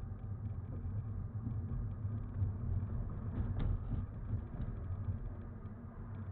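Low, steady rumble of a car driving, picked up from inside the vehicle by a dashcam's microphone, with faint ticks and a small knock about three and a half seconds in.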